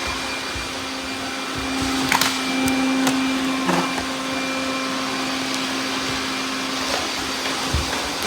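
Robot vacuum cleaners running: a steady whirring hum, with a few sharp clicks about two and four seconds in.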